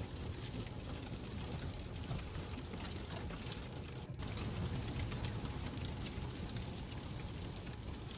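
Fireplace ambience: a steady fire hiss and low rumble with frequent small crackles, briefly dipping about four seconds in.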